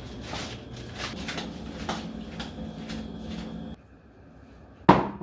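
Clatter and clicks of kitchenware being handled. The sound drops away suddenly about three and a half seconds in, and one loud sharp knock follows near the end.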